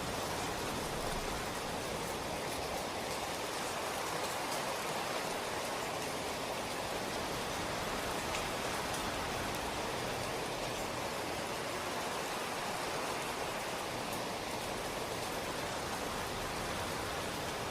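Steady rain falling, an even hiss of many drops with faint individual drop ticks now and then.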